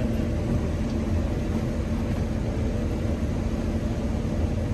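Tour boat's engine running steadily with a low rumble and hum, under an even rushing noise of water.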